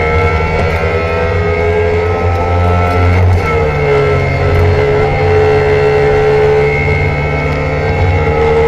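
Trabant 601's two-stroke two-cylinder engine running steadily and loudly. Its pitch sinks a little a few seconds in and climbs again near the end.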